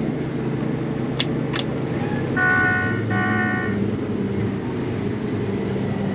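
Case IH 8250 combine running steadily, with two sharp clicks and then two short electronic warning beeps about two and a half and three seconds in.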